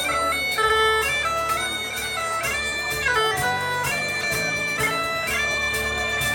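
Live traditional Irish session music: a quick, stepping melody on a reedy instrument over a steady low drone.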